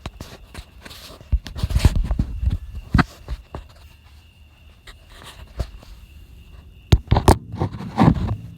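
Footsteps and handling noises: scattered knocks and thumps, with a cluster of low thumps about two seconds in and a few sharp clicks near the end. No engine is running yet.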